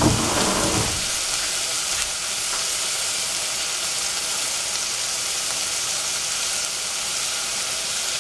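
Oyster mushrooms frying in a stainless steel saucepan, a steady sizzling hiss. A brief louder rumble comes in the first second.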